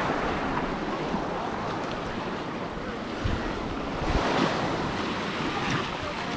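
Lake Michigan waves washing in steadily, with wind buffeting the microphone in a couple of low thumps near the middle.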